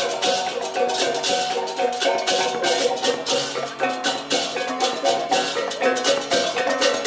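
Balinese gamelan music: tuned metal gongs and metallophones ringing over quick, even strokes of crashing cymbals.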